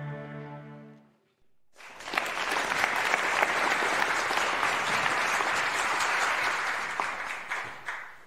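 A choir's last held chord fades out, then after a short pause a large audience applauds, the clapping dying away near the end.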